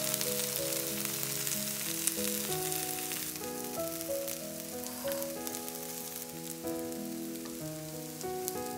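Zucchini and potato fritters sizzling in sunflower oil in a non-stick frying pan, a steady crackling hiss that eases a little after about three seconds. Background music plays under it.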